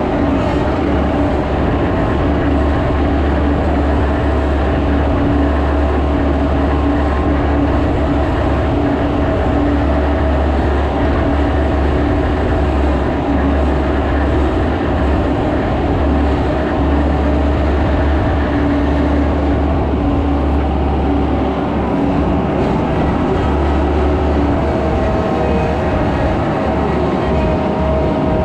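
Skid steer's diesel engine running steadily under work, a constant low drone with a higher whine over it. The pitch lifts slightly near the end.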